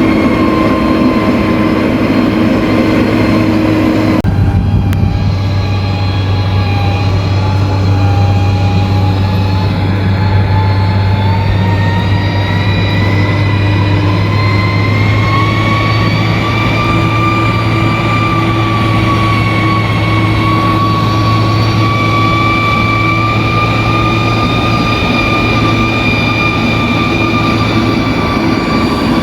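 Bulldozer's diesel engine running steadily with a high mechanical whine that slowly rises in pitch. The sound changes abruptly about four seconds in.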